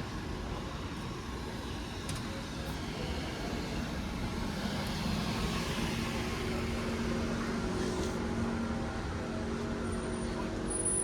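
Street traffic, with a motor vehicle passing close about halfway through and a steady engine hum continuing after it.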